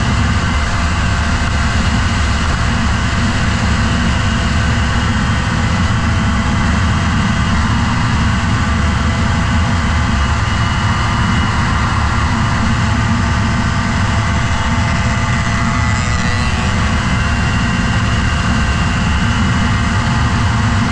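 Motorcycle running steadily at speed, heard from on board: constant engine note under a loud, even rush of noise with no let-up.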